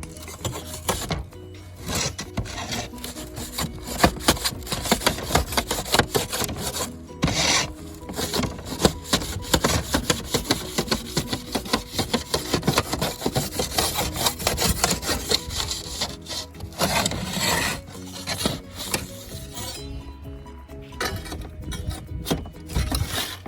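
Rapid back-and-forth scraping strokes of a hand tool on roofing material, several a second, easing off briefly about twenty seconds in, over faint background music.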